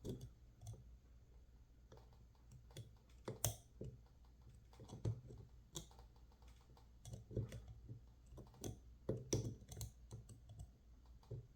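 Irregular small metal clicks and scrapes of a knife blade working under the top cover of an Opnus XZ dimple lock, prying it up.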